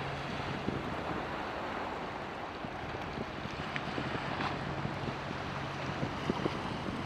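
Wind buffeting the microphone over breaking surf, with a boat's engines droning steadily underneath.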